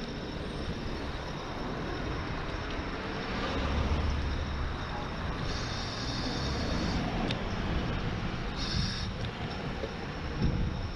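Wind buffeting the microphone of a GoPro on a moving e-bike, over steady road and tyre noise, with gusty low rumble throughout. Two brief high-pitched whines break through in the middle, and a faint rising tone comes in near the end.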